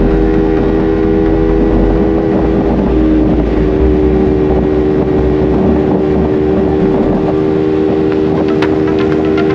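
Motorcycle engine running at a steady cruising speed under a strong rumble of wind and road noise, with a brief dip in engine pitch about three seconds in.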